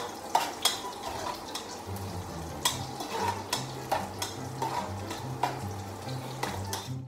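Chopped ginger frying in hot oil in a cooking pot, with a spoon clicking and scraping against the pot as it is stirred, about once or twice a second. The frying stops abruptly at the very end.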